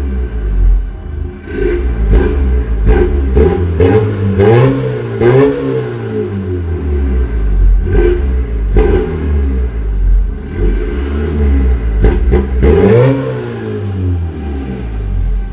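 Seat Ibiza Bocanegra's 2.0 TDI four-cylinder diesel with a straight-piped exhaust, revved repeatedly: a run of quick sharp blips, then longer rises and falls in engine pitch.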